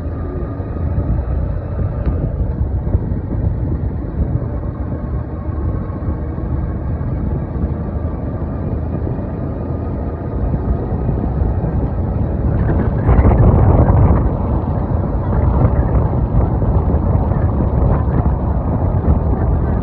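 Vehicle engine and road noise while riding along a road, with wind buffeting the microphone; it swells louder for a second or so about thirteen seconds in.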